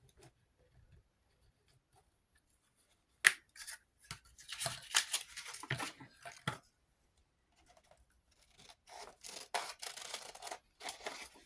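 Scissors cutting paper: two runs of short rasping snips, with a single sharp click about three seconds in.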